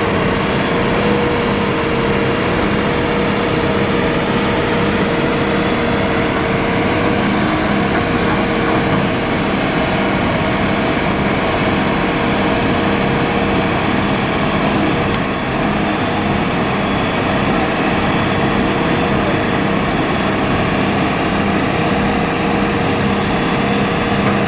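Hitachi hydraulic excavator's diesel engine running steadily at working speed, a constant drone with a held tone and no break.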